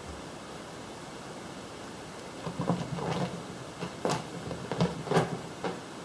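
A cat pouncing and scrabbling after a laser dot: an irregular flurry of soft thumps and sharp scratchy clicks from about two seconds in, over a steady hiss.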